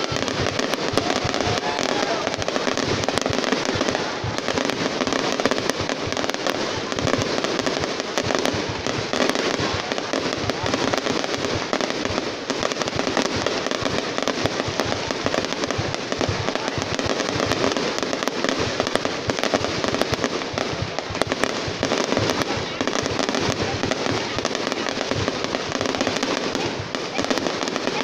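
A fireworks barrage firing without let-up: shells launch and burst in rapid succession, so the bangs and crackles run together into one continuous racket with no pause.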